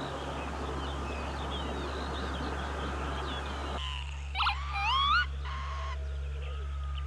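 Northern lapwing calling about four seconds in: a short burst and then a rising, wavering slur, followed by a further note. Before it, a dense chorus of many birds calling at once, over a low steady hum.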